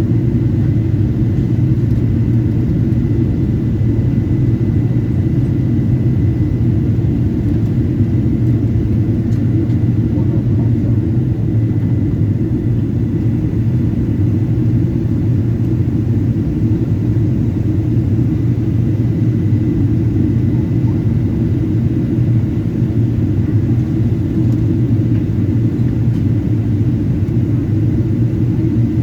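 Steady cabin rumble inside a Boeing 777-200 in flight, from its engines and the air rushing past the fuselage, with a faint thin high whine above it.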